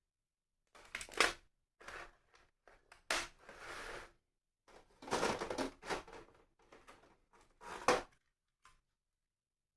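Small plastic model parts being handled and fitted together: irregular clicks and knocks with short rustling, crinkling stretches in between.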